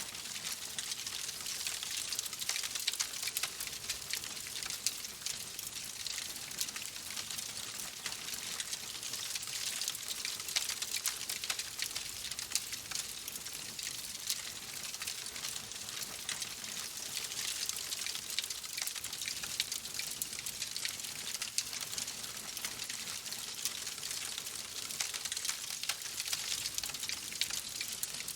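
Wood fire in a fireplace crackling steadily: a constant soft hiss with many small sharp pops scattered through it.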